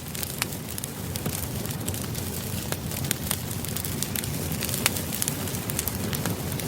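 Campfire burning: a steady low rumble of flames with frequent sharp, irregular crackles and pops from the wood.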